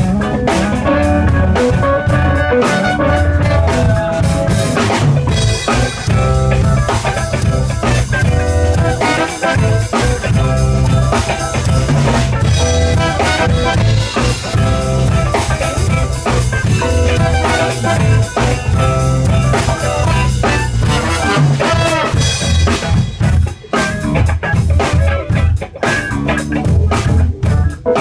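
A band playing live: drum kit with kick drum and rimshots, guitar and bass, steady and loud, with a brief thinner passage near the end.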